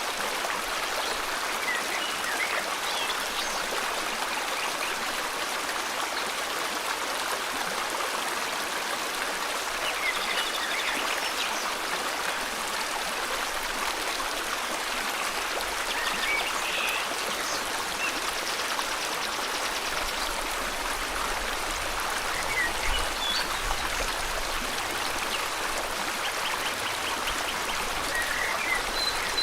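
River water flowing steadily, with small birds chirping and trilling now and then over it.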